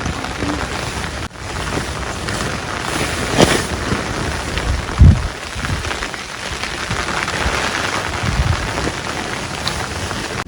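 Heavy rain falling steadily, a dense even hiss, with a few low thumps, the loudest about five seconds in.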